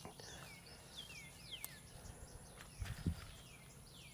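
Birds singing outdoors: a run of quick whistles, each sweeping downward in pitch, several a second, over a faint steady high hiss. A couple of soft low thumps come about three seconds in.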